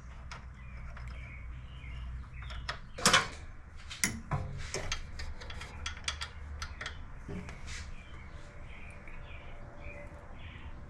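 Irregular metal clicks and knocks from a home-made lathe carriage stop being fitted and positioned on a mini lathe's bed. The loudest is a sharp double knock about three seconds in, and the clicks run over a steady low hum.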